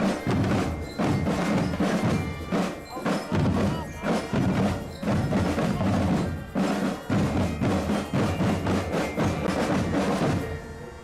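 Indonesian Naval Academy marching band playing a rhythmic march with drums and bell-like mallet percussion, turning quieter near the end.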